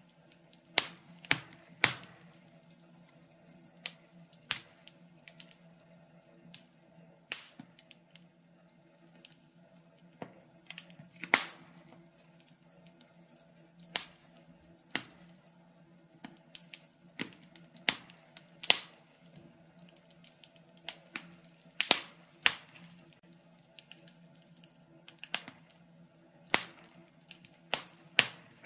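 Wood fire crackling: sharp, irregular pops and snaps, a few seconds apart or in quick clusters, over a faint low steady hum.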